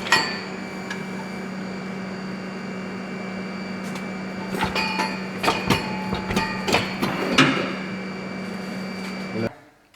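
A series of sharp metallic clicks and knocks, like tools and metal parts being handled, over a steady electrical hum. The hum and everything else cut off abruptly near the end.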